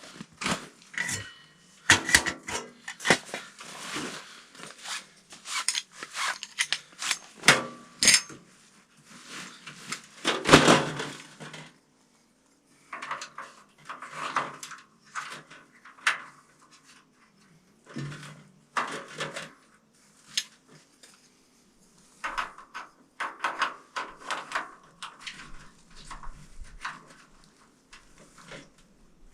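Small portable tent stove and its metal parts clanking and knocking as they are handled and set up, with rustling in between. The knocks come irregularly, with a brief pause about twelve seconds in.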